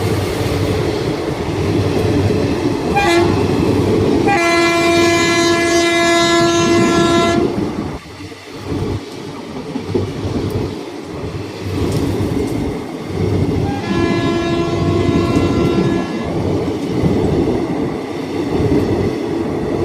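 Passing train running on the rails with a steady rumble and clatter. The horn sounds a short toot about three seconds in, then a long blast of about three seconds, and another blast of about two seconds later on.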